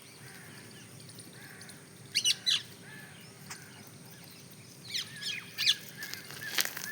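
Birds chirping: short, sharp, falling chirps in a cluster about two seconds in and again around five seconds, over a faint steady hum.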